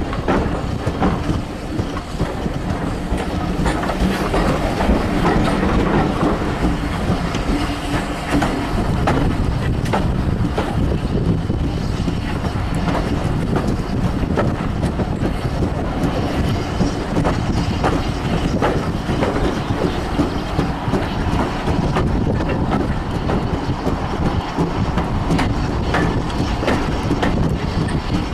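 A steam-hauled passenger train of carriages behind the BR Fairburn 2-6-4 tank locomotive 42085, running at speed: the steady rumble of the carriages, with wheels clattering over the rail joints, heard through an open carriage window.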